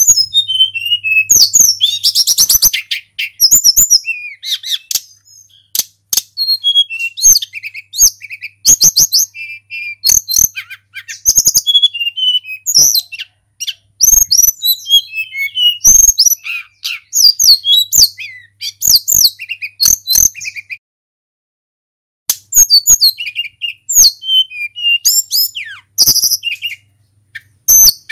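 Tledekan gunung (hill blue flycatcher) singing a long, fast run of high whistled phrases with quick slurred notes and short breaks, pausing once for about a second and a half partway through.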